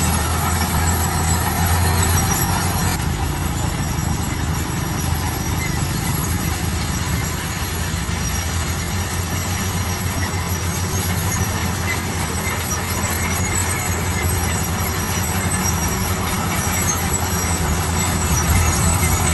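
Heavy road-construction machine running steadily, its engine giving a constant low hum under a spread of mechanical noise.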